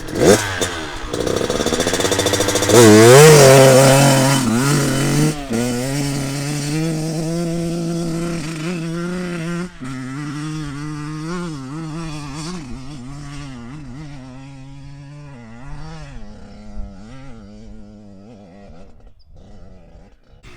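Kawasaki KX112 two-stroke dirt bike engine revving hard as the bike climbs a steep hill: the revs rise sharply in the first few seconds, then waver up and down with the throttle, and the sound grows quieter over the second half.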